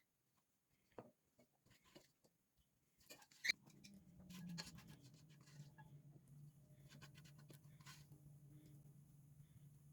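Scattered light clicks and scrapes of kitchen handling, then a sharp click about three and a half seconds in, followed by a steady low hum.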